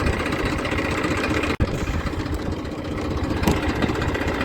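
Massey Ferguson 1035 DI tractor's three-cylinder diesel engine running steadily. The sound cuts out for an instant about one and a half seconds in, and there is a short click about three and a half seconds in.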